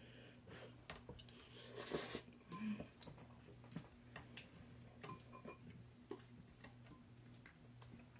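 Faint eating sounds of spicy ramen noodles being eaten: scattered small mouth and utensil clicks, with two louder, noisier bursts about two seconds in, over a steady low hum.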